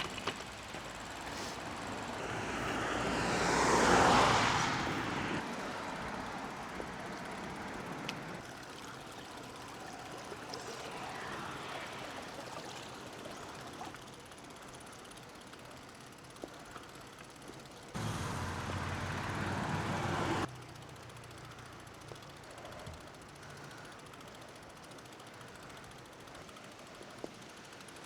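A vehicle passing by, swelling to its loudest about four seconds in and then fading, over low steady road noise. A louder stretch of about two and a half seconds starts and stops abruptly in the second half.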